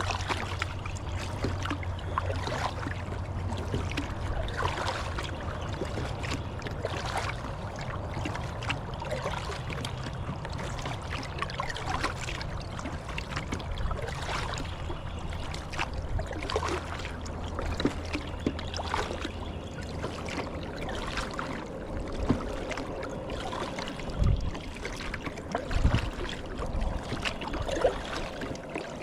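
Kayak paddle dipping and dripping in river water in repeated strokes, with water splashing and trickling along the hull. A couple of low thumps sound near the end.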